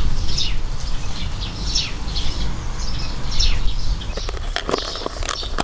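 A bird calling over and over, with short falling high chirps about once a second, over a steady low rumble. From about four seconds in comes a run of sharp clicks.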